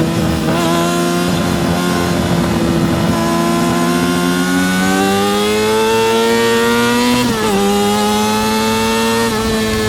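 Yamaha R6 RJ03 inline-four race engine pulling hard under acceleration: its high-revving note climbs steadily, then drops sharply twice at upshifts, about seven seconds in and again near the end.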